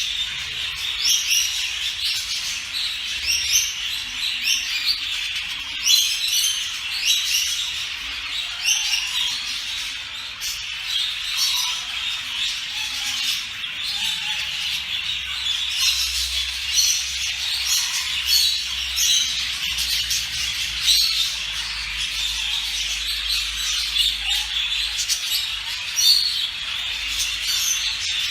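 Many budgerigars chattering and chirping at once, a dense, unbroken mix of short warbling calls and squawks.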